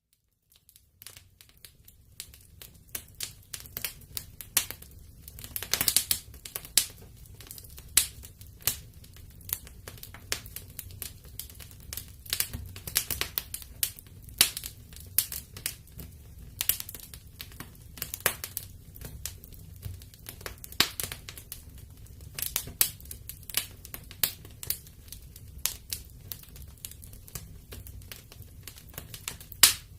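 Wood fire in a fireplace crackling, with irregular sharp pops and snaps several times a second over a low, steady rumble of the flames. It begins after a moment of silence at the very start.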